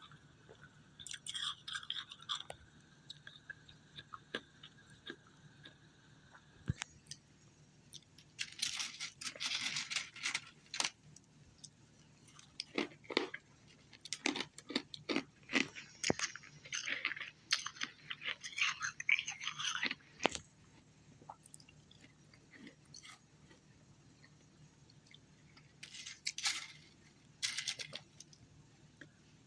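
A person chewing and crunching ice, close up, in several bouts of rapid crunches with quiet pauses between them.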